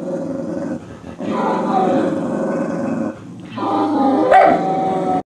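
Dogs growling as they fight, in three long spells with brief breaks, cutting off suddenly near the end.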